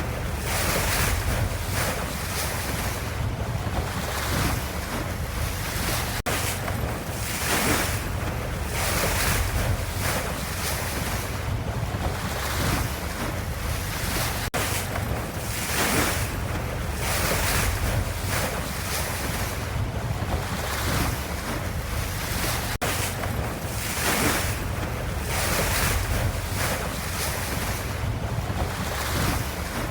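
Ocean waves washing in a steady rush of surf, with a low rumble underneath and the wash swelling and easing about every two seconds.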